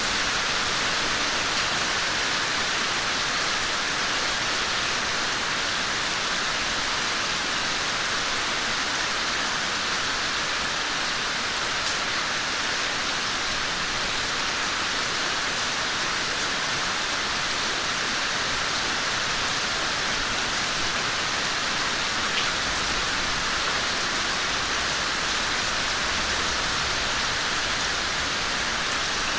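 Steady rain falling in a yard, a dense even hiss with occasional single drips standing out. A faint low rumble comes in near the end.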